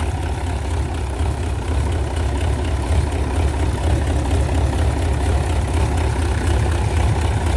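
Mitsubishi Fuso 8DC91 V8 diesel engine running steadily at idle, a deep even sound.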